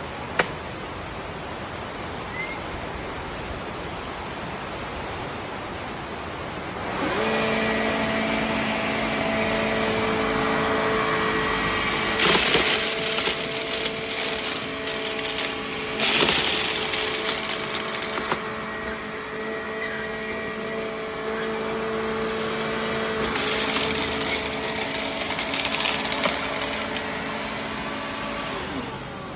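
Makita VC010G upright vacuum running: a steady hiss at first, then about seven seconds in a steady motor whine comes in and keeps on, with three stretches of louder, sharper hissing of a few seconds each.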